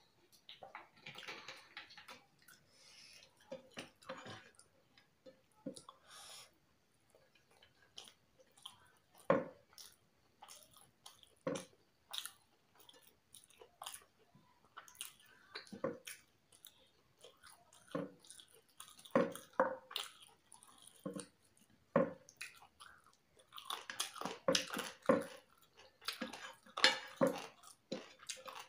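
A person eating chicken biryani by hand, heard close up: chewing with wet mouth smacks and clicks at irregular intervals, more crowded near the end.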